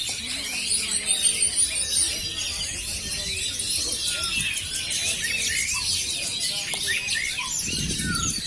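Many caged oriental magpie-robins (kacer) singing at once: a dense, overlapping chorus of rapid whistles and chirps with no pause. A brief low rumble sounds near the end.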